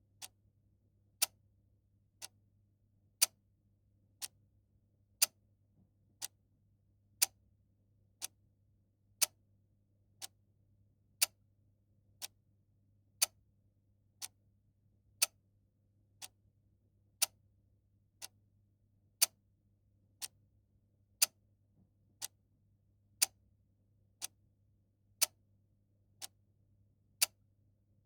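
Mechanical clock ticking once a second in an even tick-tock, the ticks alternating louder and softer, over a faint steady low hum.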